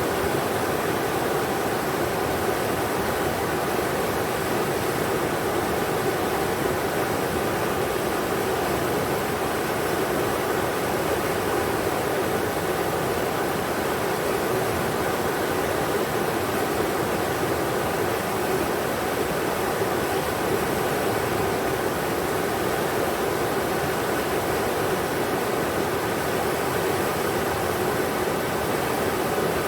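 Englishman River flowing: a steady, even rush of moving water that does not change.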